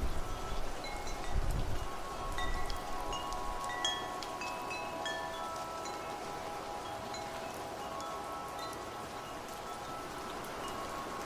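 Wind chimes ringing with scattered notes over steady rain, most of the notes in the first half. A low rumble, like a gust of wind, about a second and a half in.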